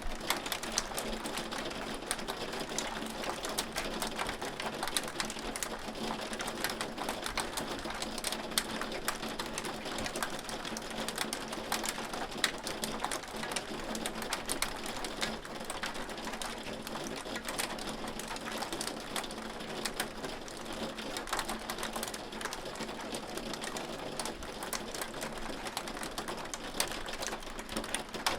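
Hailstones falling steadily, a dense, fast ticking and clattering of small stones striking a hard surface over a hiss of falling ice and rain.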